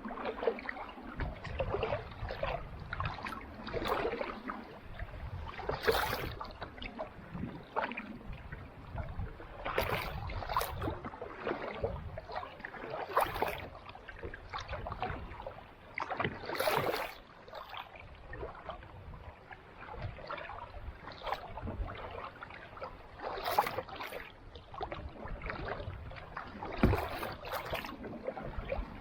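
Kayak paddle strokes in calm sea water: splashes and drips recurring every few seconds.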